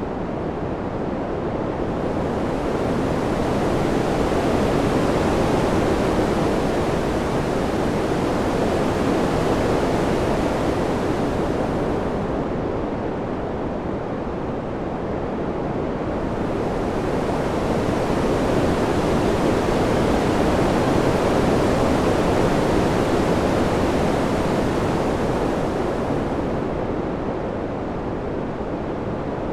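Steady wind noise that swells and eases in slow gusts, peaking about every fifteen seconds. In the lulls it turns duller as the hiss drops away.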